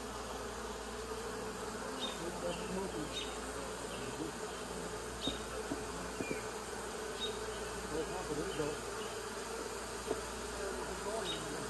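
A swarm of honeybees buzzing steadily all around, with single bees flying close past, their hums rising and falling in pitch.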